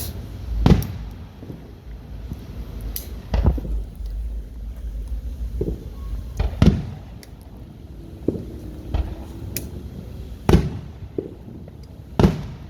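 Fireworks going off: a string of sharp booms a few seconds apart, about five loud ones with smaller pops between, each trailing off briefly.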